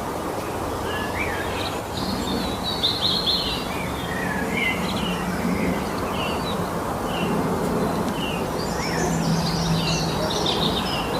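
Several songbirds singing in a spring forest, with short chirps and trills coming thickest about two seconds in and again near the end, over a steady background hiss and a faint low hum.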